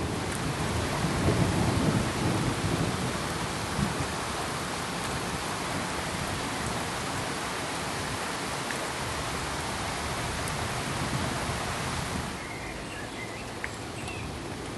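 Steady rain-like rushing hiss with a low rumble of thunder that dies away over the first few seconds. About twelve seconds in, the sound steps down to a quieter, even hiss.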